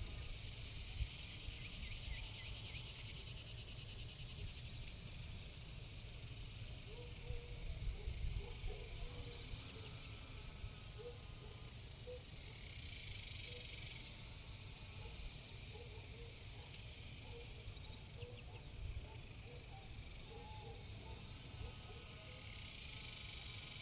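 Outdoor farm ambience: a steady high insect drone, faint short animal or bird calls, and a low rumble on the microphone.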